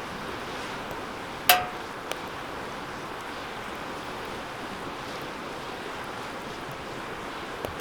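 Wood fire burning with a steady hiss. About one and a half seconds in, the steel fire pit gives a single sharp metallic clang that rings briefly, followed by a couple of small ticks.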